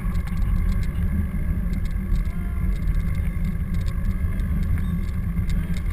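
Steady low rumble and buffeting from moving outdoors during a bike ride, with no clear single event standing out.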